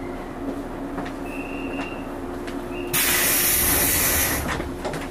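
A JR 115 series electric train standing at a platform hums steadily. About three seconds in, a loud hiss of released compressed air from the train's pneumatic system lasts about a second and a half.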